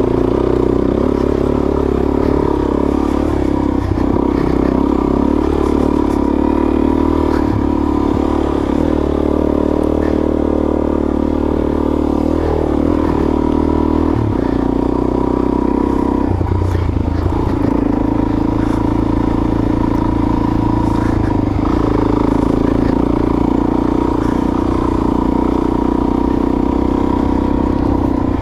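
Suzuki DRZ400S single-cylinder four-stroke engine running under way, its engine speed shifting up and down several times with the throttle. The rider says the bike has been having trouble running and suspects something got into the carburetor.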